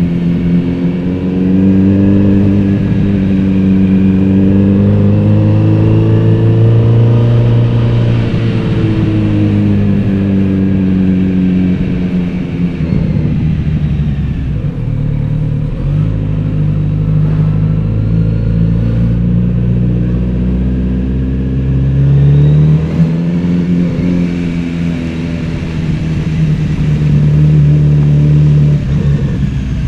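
Kawasaki Z900RS inline-four motorcycle engine and exhaust under way. The revs climb and ease off over the first half, settle to a low steady run through the middle, then rise again about two thirds in and drop back near the end.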